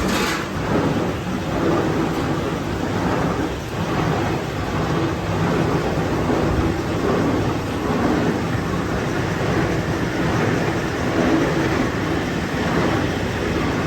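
Loud, steady rumbling din of factory machinery, swelling and easing slightly, with a sharp click right at the start.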